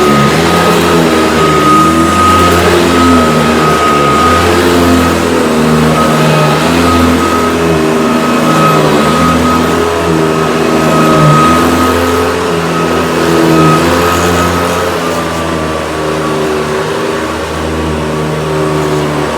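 Hoover Decade 80 upright vacuum cleaner running, a steady high whine over a motor hum that swells and fades every second or two. The whine drops slightly in pitch about three-quarters of the way through.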